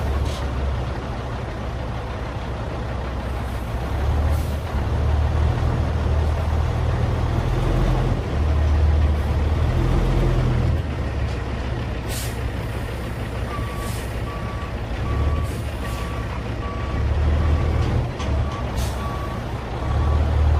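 Cat C15 diesel in a Peterbilt 387 dump truck running under way as the truck drives, with short hisses of air from the air brakes a few times. About two-thirds of the way in, a backup alarm starts beeping steadily as the truck reverses.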